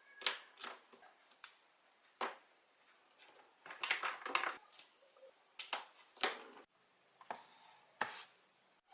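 Small hard parts being handled on a workbench: a dozen or so irregular sharp clicks and clacks, some in quick clusters about four seconds in.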